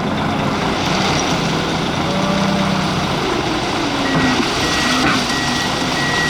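Heavy diesel machinery running steadily, its engine pitch dipping and rising again midway. From about four seconds in, a reversing alarm beeps about twice a second, with a single knock just after.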